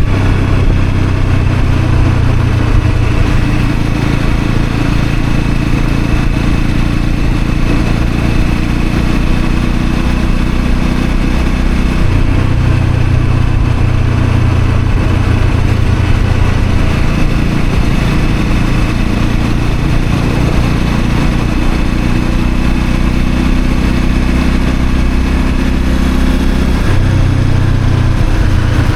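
Honda CL250 motorcycle engine running steadily under way, its note changing pitch about twelve seconds in and again near the end.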